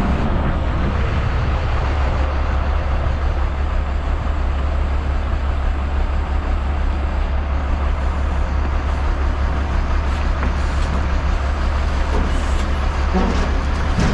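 Loaded log truck's diesel engine running steadily with a deep rumble as the truck is manoeuvred into park.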